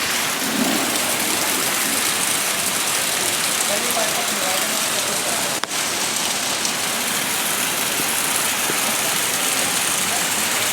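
Rain falling steadily, a dense even hiss of rain on surfaces, with the sound cutting out for an instant about five and a half seconds in.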